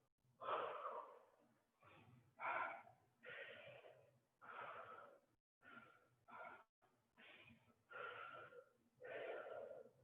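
A person breathing hard and fast from exertion, faint puffs in and out about once a second.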